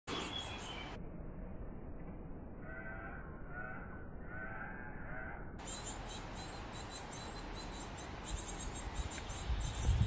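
Birds calling: a run of about four hoarse, pitched calls in the middle, then quicker, higher chirping in the second half, with a low rumble near the end.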